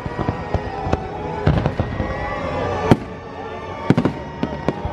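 Fireworks going off in an irregular series of sharp bangs over music, the loudest bang about three seconds in.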